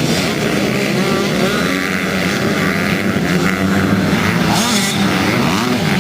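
Several motocross bikes racing, their engines revving up and down and overlapping.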